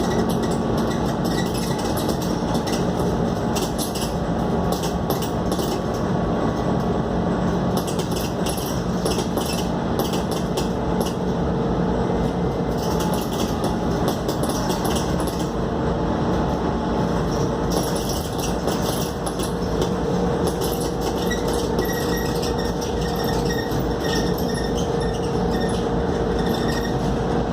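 Cabin noise aboard a moving Scania K280UD double-decker bus: its engine running steadily under the floor, with road noise and irregular rattles from the bodywork.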